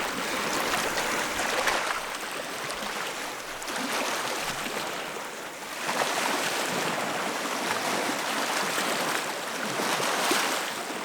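Rushing stream water: a steady, even rush that eases slightly partway through and picks up again about six seconds in.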